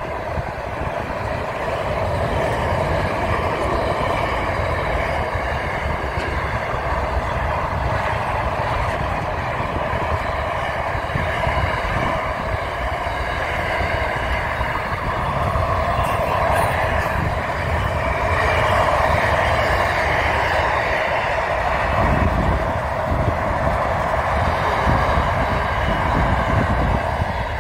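Container freight train wagons rolling past on the rails: a steady rumble of wheels on track with a faint high ringing over it.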